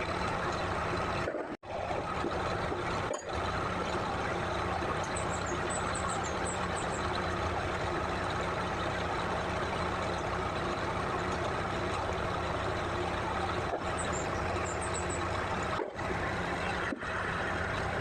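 Hitachi LX50 wheel loader's diesel engine running steadily, briefly cutting out a few times.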